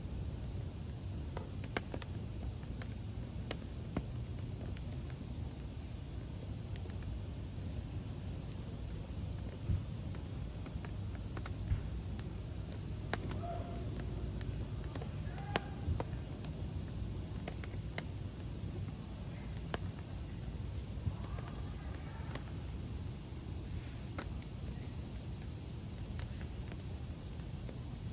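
Crickets chirping steadily over a wood campfire burning, with scattered sharp crackles and pops from the logs.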